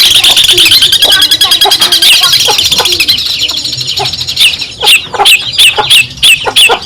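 Long-tailed shrike (cendet) singing: a fast, continuous twittering chatter, then from about four seconds in a string of separate loud, harsh, downward-slurred calls.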